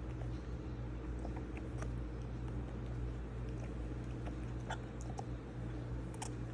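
Scattered light clicks and taps from a dog mouthing and playing with a toy, over a steady low hum.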